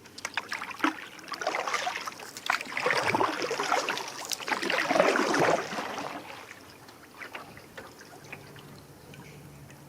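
Water splashing and trickling around a canoe, with many small knocks and drips; it is busiest for about the first six seconds, then dies down to light trickling.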